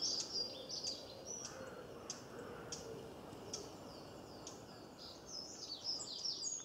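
Birds chirping: many short, high chirps and quick downward-sweeping calls, several a second, over faint background noise.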